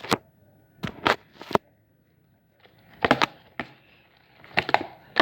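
Slime being stirred and worked in its container, giving short clusters of sticky pops and clicks with brief pauses between.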